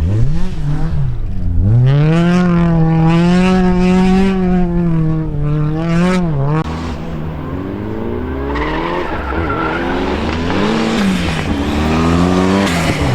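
Rally car engine driven hard on a stage, its revs dipping and rising, held high for a few seconds, then dropping sharply about halfway through and picking up again at lower revs.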